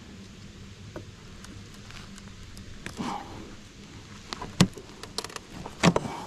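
Honeybees humming low and steadily around an open hive, with several sharp knocks and clicks of beehive equipment being handled, the loudest in the second half.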